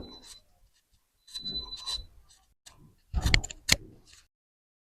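Handling noises: rustling and rubbing, then a few sharp clicks and knocks about three seconds in, as of a microwave and its parts being moved about. The sound cuts to dead silence shortly before the end.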